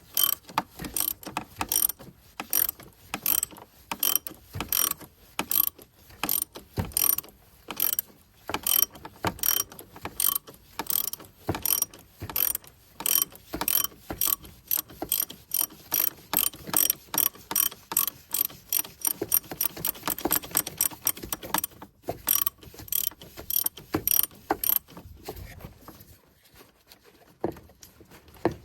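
Socket ratchet with an extension clicking in quick runs as it turns out the 27 mm oil filter housing cap, the clicks coming faster around two-thirds of the way through and thinning out near the end.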